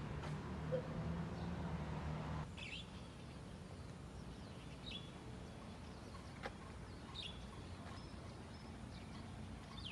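Quiet outdoor ambience with a few short, high bird chirps a couple of seconds apart. A low steady hum, like a distant engine, runs for the first couple of seconds and then stops abruptly.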